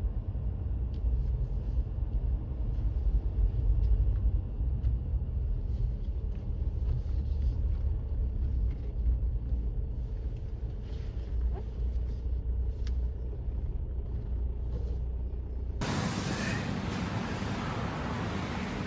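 Car driving on the road: a steady low rumble of engine and tyres. About sixteen seconds in it switches abruptly to a loud, even hiss.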